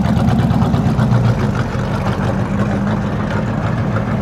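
Muscle car V8 engine idling steadily, a low, even rumble.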